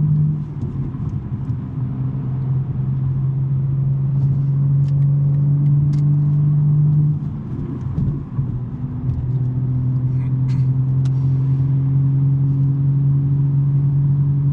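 BMW M3 G80's twin-turbo inline-six running through a non-resonated SuperSprint mid pipe, droning steadily at a constant cruise. About seven seconds in the note drops away for a second or so, then settles back into the same steady drone at a slightly lower pitch.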